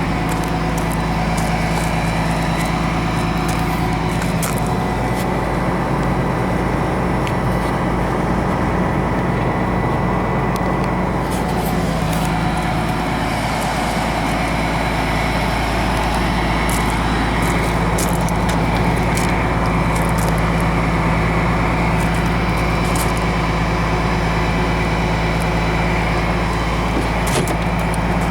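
The Cummins ISM turbo diesel of a 2003 Blue Bird LTC-40 coach running steadily under way, with road noise and scattered light rattles; its pitch drifts a little around the middle.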